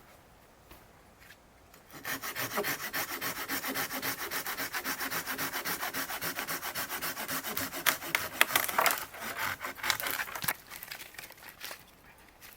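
Wood being sawn by hand: fast, even, rasping strokes, about five a second, starting about two seconds in. They turn irregular and stop near the end.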